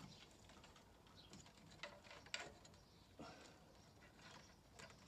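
Faint, scattered clicks and light rattles of plastic wiring-loom connectors being handled and pulled apart, a few separate ticks over a quiet background.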